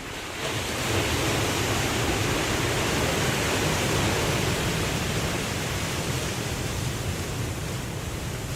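Ocean surf: a wave's rush of water swells in about half a second in, holds as a steady wash and slowly eases off toward the end.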